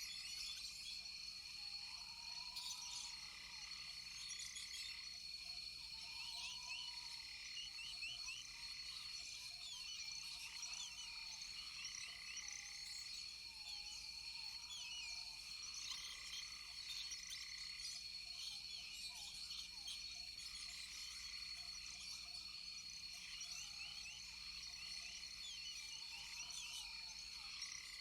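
Rainforest frog chorus: short calls repeating every two or three seconds, over a steady high-pitched insect drone and scattered chirps.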